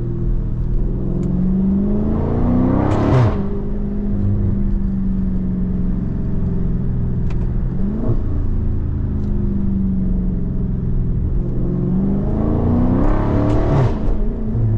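Scat Pack's 6.4-litre HEMI V8 exhaust, made louder by a mid muffler delete, pulling hard twice. Each time it rises in pitch and then drops suddenly at an upshift, and it cruises steadily in between.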